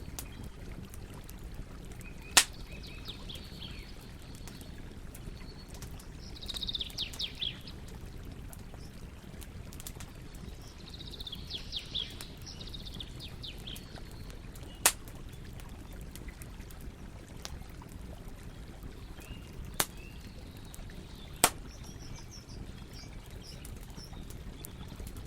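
Campfire burning with a steady low rustle, punctuated by four sharp pops of burning wood. Small birds twitter in a few short bursts in the background.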